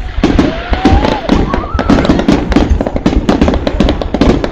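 A dense fireworks barrage: shells bursting in quick succession with rapid bangs and crackling over a continuous low rumble. A whistle rises in pitch about half a second in.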